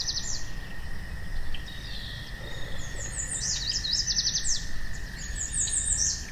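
Small birds chirping in short, quick runs of high notes, several times over, above a steady thin high tone and a low background rumble.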